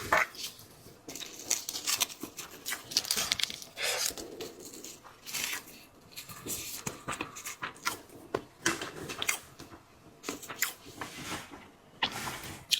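Close-miked mukbang eating: seafood shells being cracked and peeled by hand, with irregular crackles, tearing and crunches of chewing.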